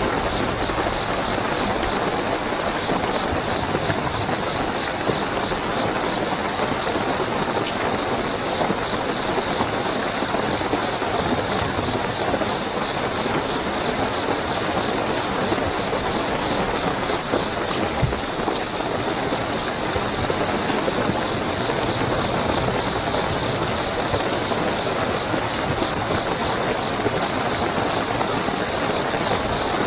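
Steady rainfall with crickets chirping in a continuous high-pitched trill over it.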